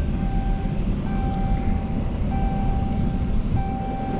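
Vehicle engine running with a steady low rumble, while an electronic warning tone sounds in long beeps about once a second.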